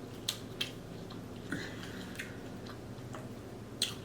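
Quiet eating sounds close to the microphone: about half a dozen scattered short mouth clicks and smacks while chewing seafood boil.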